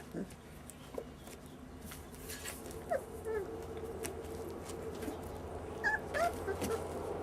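Month-old puppies whimpering and yipping in short, squeaky cries, with scattered small clicks and taps from their play. A steady low hum runs underneath.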